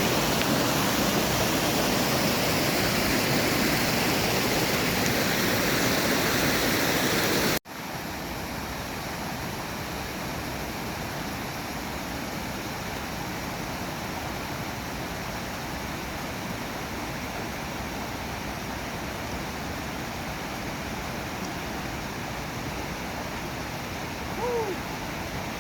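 Steady rush of flowing water, like a mountain stream. About seven seconds in it cuts off abruptly, and a quieter steady rush takes over.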